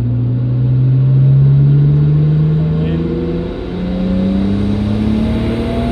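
Nissan Skyline GT-R's RB26DETT twin-turbo straight-six accelerating hard, its pitch rising. The revs drop at a gear change about three and a half seconds in, then climb again.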